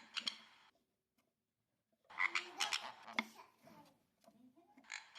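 Sun conure making low, raspy croaking calls in three bursts, the middle one the longest.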